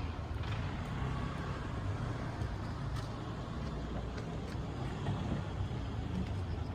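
Porsche 911 Turbo S (992) twin-turbo flat-six running steadily at low engine speed, a low, even exhaust hum.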